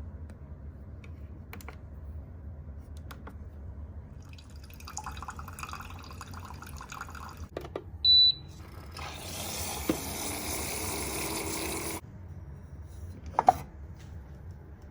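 Keurig single-serve coffee maker at work, with liquid running and filling a cup. A short high beep comes about eight seconds in, then about three seconds of loud hissing that stops abruptly, and a sharp clink near the end.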